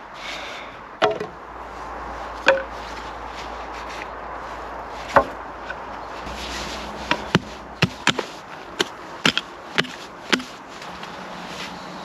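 Wood being chopped: sharp blows striking wood, three spaced strikes followed by a quicker run of about eight in the second half.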